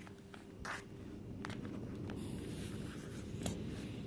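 Faint handling noises from a multimeter being moved and positioned on a work surface: a few light clicks and short scraping rustles over a low steady hum.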